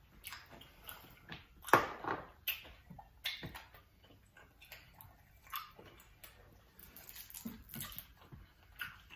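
Close-up mouth sounds of eating a sauced seafood boil: irregular wet smacking and chewing clicks, the loudest smack a little under two seconds in.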